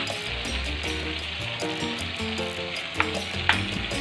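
Chili and tomato paste sizzling in a steel wok as sweet soy sauce is poured in and stirred with a metal spatula, with two sharp clicks of the spatula against the wok half a second apart near the end.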